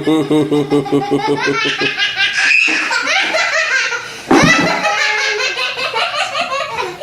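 Children laughing hard: a fast rhythmic run of 'ha-ha-ha' belly laughter, then high-pitched squealing giggles about two and a half and four seconds in.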